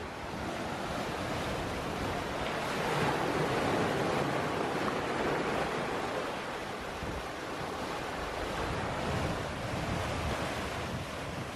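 Sea water rushing and waves washing against a sailing catamaran's hulls under way, with wind on the microphone. The rush swells a few seconds in, then eases.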